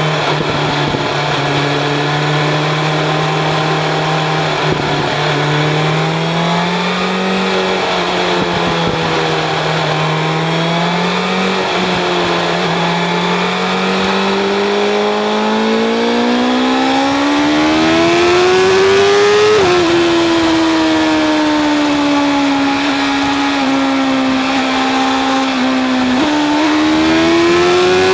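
BMW S1000 RR's inline-four engine through an Akrapovic exhaust, pulling hard as the bike gathers speed. The pitch climbs steadily, drops sharply on an upshift just before the two-thirds mark and again near the end, then rises again. Wind rush grows louder as the speed builds.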